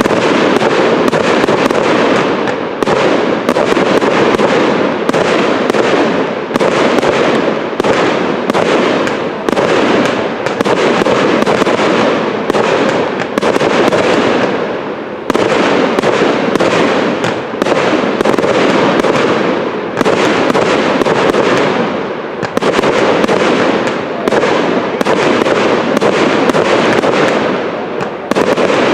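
Aerial fireworks display: shells bursting one after another in a dense, almost unbroken barrage of bangs and crackle, with a short lull about fourteen seconds in.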